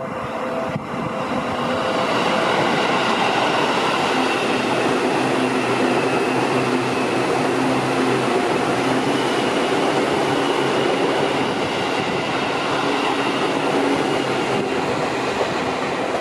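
Yellow Seibu 2000-series ten-car electric express train running through the station without stopping: a loud, steady rush of wheels on rail with a faint whine, easing off near the end as the last car goes by.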